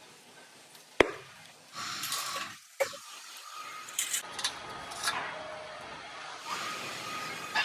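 Workshop work sounds: a single sharp knock about a second in, then bursts of scraping and hissing broken by a few more knocks.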